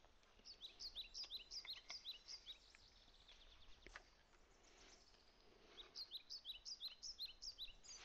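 A bird singing faintly: two bouts of quick, repeated falling chirps, one about half a second in and another about two seconds before the end.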